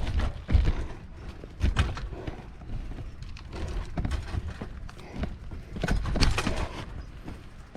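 Footsteps picking over big loose rocks: irregular knocks, clatters and scrapes of stone underfoot, with low rumble on the microphone.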